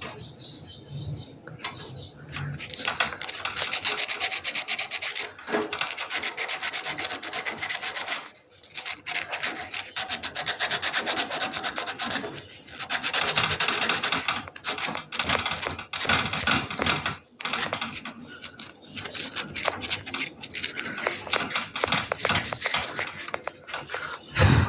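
Fine sandpaper scrubbed rapidly back and forth on a gas heater's thermocouple tip, in several long spells with short pauses between them. This scours off the carbon and dust that stop the thermocouple from sensing the flame temperature properly.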